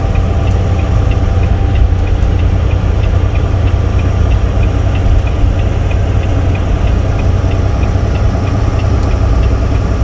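Semi truck's engine and road noise heard inside the cab while driving, a loud steady low drone, with a light tick repeating about twice a second.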